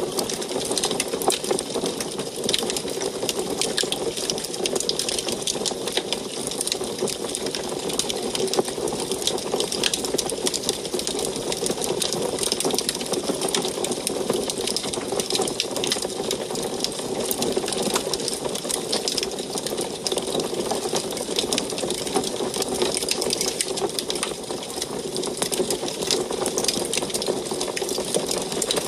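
Wood fire in an antique wood stove crackling steadily: dense, irregular small pops and snaps over a continuous rushing hiss.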